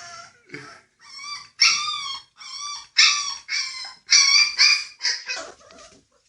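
Puppies yipping and whimpering: a quick run of short, high-pitched calls, about two or three a second, louder from about a second and a half in.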